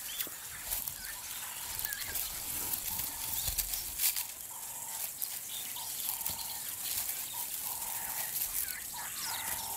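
Outdoor bush sound of many short, high chirping calls, repeated again and again, over rustling and crackling of dry ground cover as an African wild dog rolls in the grass, with a few sharp clicks.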